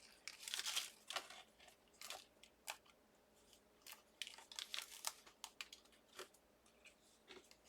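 Die-cut card stock being handled as small cut-out pieces are poked free: faint paper rustling and crinkling in short, scattered bursts.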